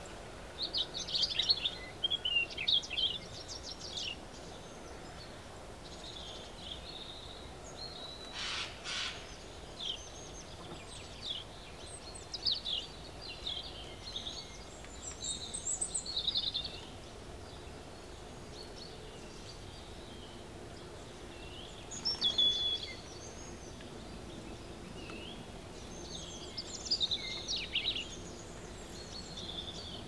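Small birds chirping and trilling in several separate bursts of high calls, over a steady faint background hiss.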